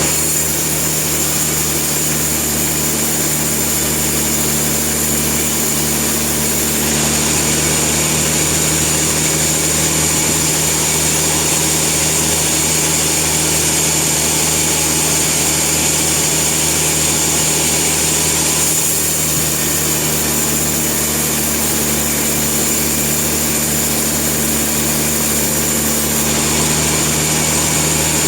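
Sawmill running steadily: an engine's drone under the high hiss of the saw. The hiss shifts in level a few times.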